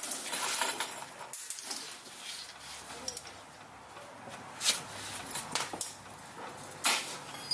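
A few sharp metallic clanks and knocks, the loudest about two-thirds of the way through and near the end, from a pry bar working a Jeep Wrangler JK's rear shock absorber out of its mount.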